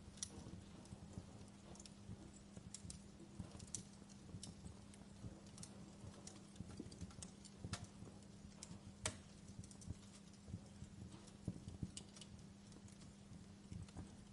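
Wood fire crackling quietly, with irregular sharp pops and snaps, a couple of louder ones past the middle, over a faint steady low hum.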